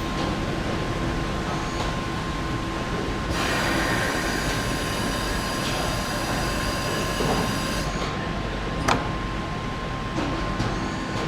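Car assembly hall ambience: steady machinery hum with a constant high tone. A hiss starts about three seconds in and lasts about four and a half seconds, and there is a single sharp click about nine seconds in.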